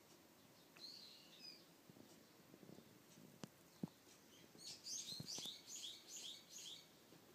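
Faint bird chirping: a short high call about a second in, then a quick run of about eight high chirps in the second half. A few soft clicks come in between.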